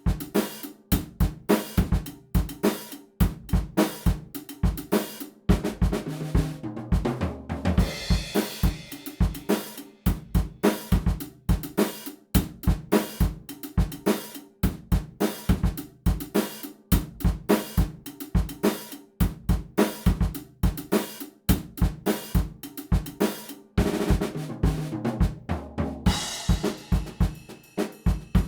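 Background music driven by a steady, busy drum-kit beat with snare, kick drum, hi-hat and cymbals.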